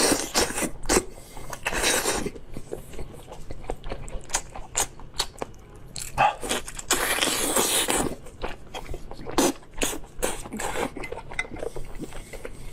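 Close-miked eating sounds of a person chewing meat: many short wet clicks and smacks, with occasional scrapes and clinks of dishes or utensils. A longer noisy sound lasting about a second comes about seven seconds in.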